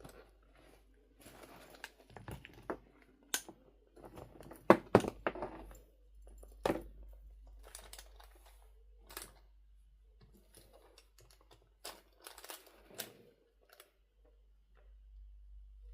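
Objects being handled at close range: irregular rustling and crinkling with scattered sharp clicks and knocks, the loudest cluster about five seconds in.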